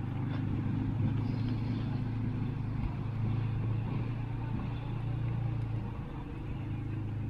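Steady low hum of an engine running, easing off slightly near the end.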